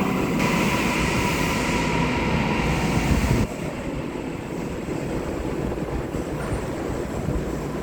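Tokyu 5080 series electric commuter train pulling into the platform and coming to a stop. About three and a half seconds in, its running and braking noise cuts off suddenly, leaving the lower hum of the stopped train.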